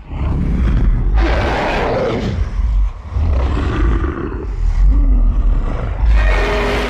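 Roar sound effects, three in a row, each starting abruptly, over a heavy low rumble, with a new effect cutting in near the end.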